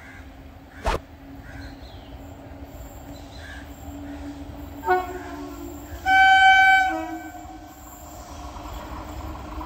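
Train locomotive horn: a brief toot about five seconds in, then a longer, loud single-pitched blast about a second later, the departure signal of a train pulling out. Under it runs a steady low hum, with a sharp click about a second in.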